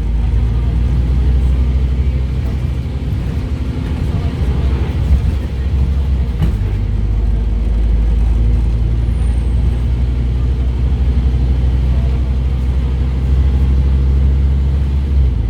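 Scania DC9 five-cylinder diesel engine of a Scania OmniCity double-decker bus running under way, a steady low drone. The engine note changes near the end.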